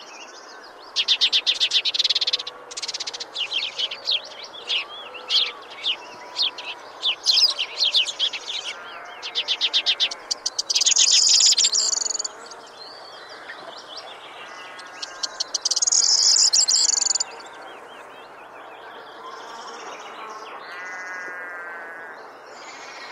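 Songbirds singing: a chorus of chirps and whistled notes with loud rapid trills. The loudest trills come about a second in, about eleven seconds in and about sixteen seconds in.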